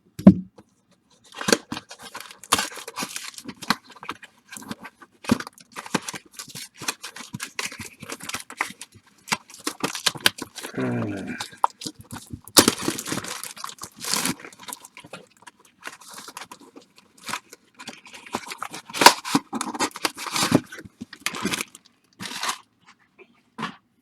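Baseball card pack wrappers being torn open and crinkled, with cards and packs shuffled and handled in between: a run of irregular rips and rustling with a few sharper tears.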